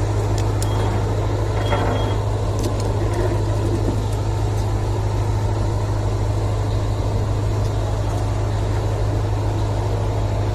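Coal ship's machinery running with a steady low hum, with a few faint clicks in the first three seconds.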